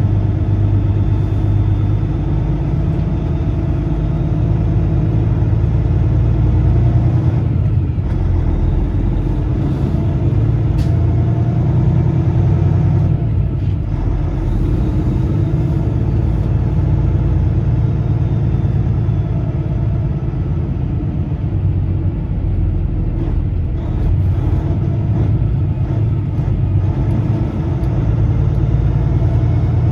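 Heavy diesel engine running steadily, its pitch drifting up and down a little.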